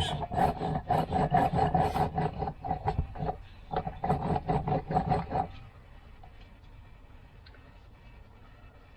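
Crankshaft of a Mobylette AV7 moped engine turned by hand, its bearings grinding in quick rasping strokes for about five and a half seconds, then stopping. The grinding is the sign of worn crank bearings, which the owner suspected were due for replacement.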